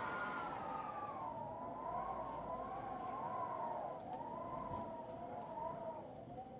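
Distant siren wailing, its pitch sliding down and then rising and falling slowly as it fades, over a steady hiss of rain and a few faint fire crackles.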